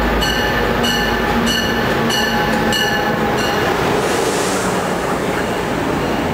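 Passenger train pulling into an underground station platform: a steady rumble of the train rolling in, with a bell ringing about every 0.6 s until about halfway through, then a brief hiss as the cars roll past.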